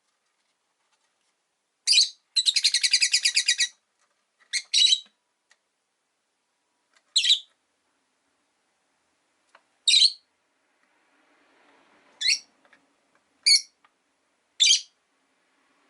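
Rosy-faced lovebirds calling: sharp, high chirps every second or two, with a rapid chattering trill of about ten notes a second near the start.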